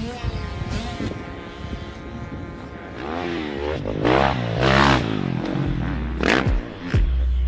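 Dirt bike engine held at a steady pitch for about three seconds, then revved up and down repeatedly as the throttle is worked.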